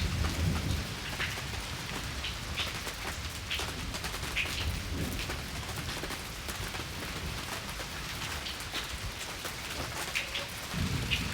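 Heavy rain falling, with individual drops ticking sharply on nearby hard surfaces. A low rumble of thunder sits under the rain at the start and rises again near the end.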